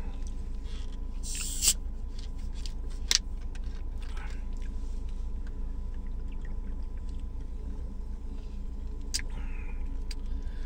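Steady low hum of a car's idling engine, heard inside the cabin, with a few sharp clicks and short rustles from eating a sandwich.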